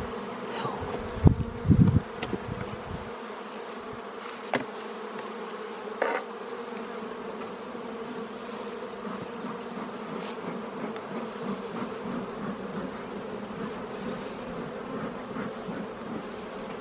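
Honeybees buzzing steadily from an open hive, a dense even hum. A few sharp knocks in the first couple of seconds, with a couple more around four to six seconds in.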